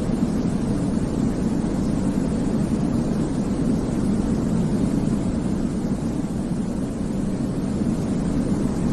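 Steady sleep-aid white noise for babies, deep-pitched and even, with no breaks or changes.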